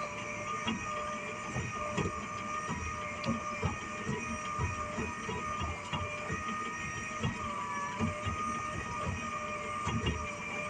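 Motorized trap hauler running steadily, winding in a crab or prawn trap's line, a steady whine with irregular low knocks.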